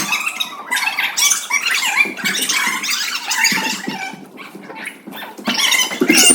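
Children's high-pitched shouts and squeals, many voices overlapping in a jumble.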